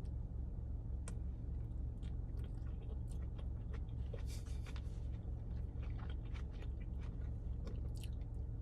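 Close-up chewing and biting of fast food, with small crunches and wet mouth clicks scattered through. A steady low hum runs underneath.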